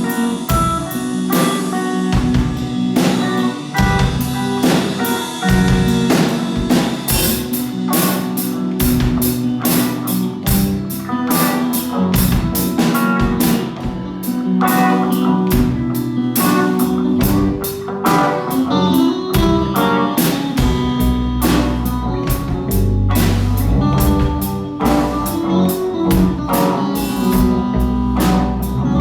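A rock band playing, with guitar and a drum kit keeping a steady beat. The low end gets heavier about two-thirds of the way through.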